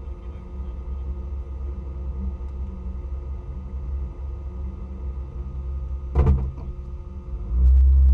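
Rally car engine idling, heard from inside the cabin as a steady low hum, with a sharp knock about six seconds in and the engine note swelling louder near the end.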